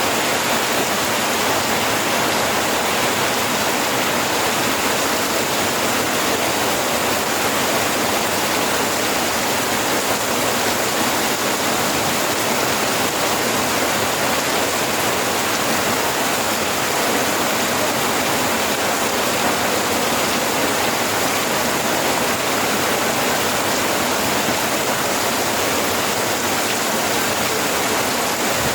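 Steady, even rain, a dense continuous hiss.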